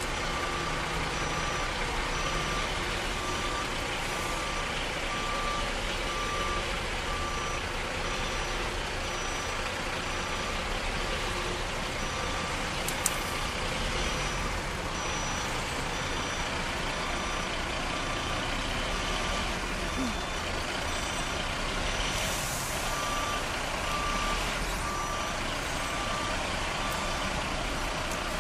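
A truck's diesel engine running steadily while a reversing alarm beeps over and over. The beeping fades in the middle and comes back louder later, and there is one sharp click about 13 seconds in.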